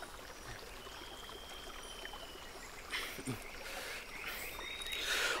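Outdoor forest ambience: a steady hiss of running stream water, a few brief rustles, and a short run of faint chirps near the end.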